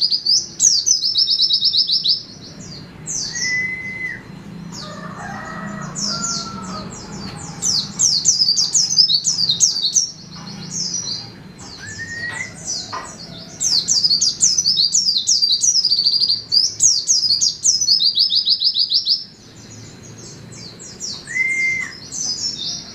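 White-eye (pleci) singing a fast, high twittering song in long runs of rapid notes, with brief pauses between runs. A lower slurred whistle sounds three times.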